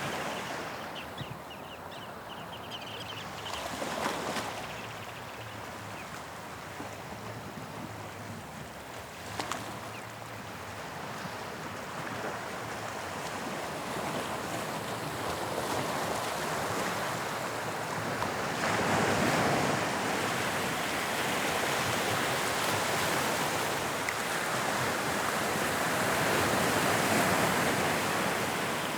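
Sea waves breaking and washing on the shore in a continuous surf, swelling louder about two-thirds of the way through.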